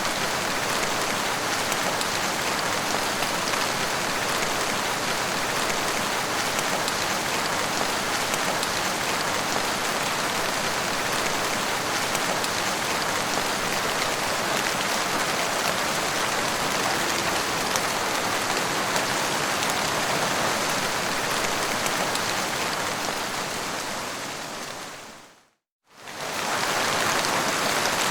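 Steady rain falling, an even hiss of countless drops on a surface. A little before the end it fades out to silence for a moment and then fades back in.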